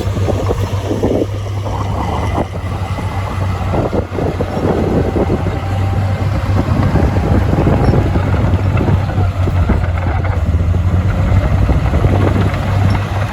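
Heavy diesel earthmoving machine's engine running steadily: a low drone with rough, irregular noise over it.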